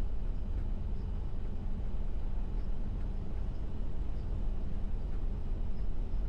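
Steady low engine and road rumble inside a semi-truck's cab while driving.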